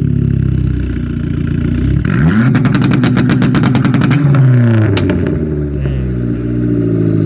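Dodge SRT-4's loud exhaust, turbocharged 2.4-litre four-cylinder, idling and then revved once about two seconds in. The pitch climbs, holds high for about two seconds with a rapid, even crackle, then falls back to idle with a single sharp pop on the way down.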